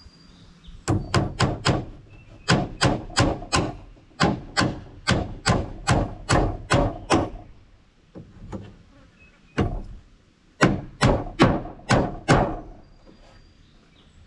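Hammer driving nails into wooden 1x4 purlins, struck in quick runs of several blows per nail with short pauses between nails.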